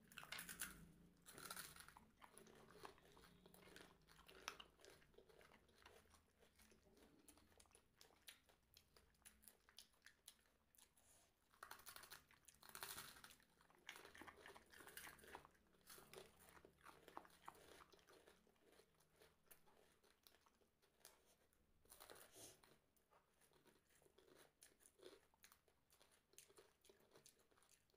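Faint chewing and crunching of crisp snack food, close to the mouth, with many short crunches coming in clusters.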